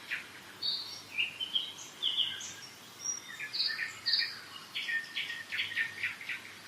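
Several songbirds singing in spring forest, many short chirps and trills overlapping, over a faint steady rush from a mountain river.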